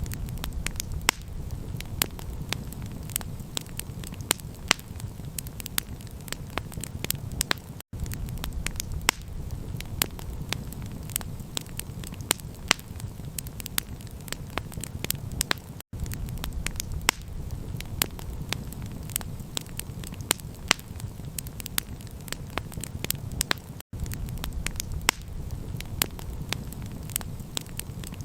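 Campfire crackling, with many sharp pops and snaps over a steady low rumble of the flames. The sound drops out briefly about every eight seconds.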